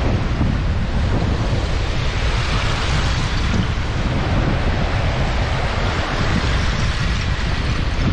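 Strong wind buffeting the microphone over lake waves washing in, a steady loud rush with a heavy low rumble.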